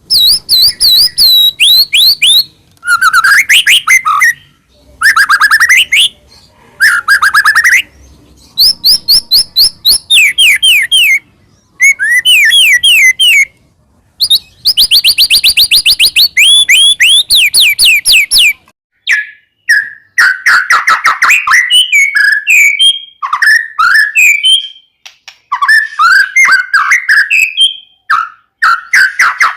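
White-rumped shama singing loudly in phrases of fast repeated whistled notes and trills, separated by short pauses. From about two-thirds of the way in, the song turns to quicker, choppier chattering notes.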